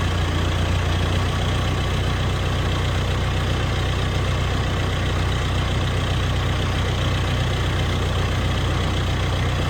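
Farm machinery engine idling steadily with a low, even hum.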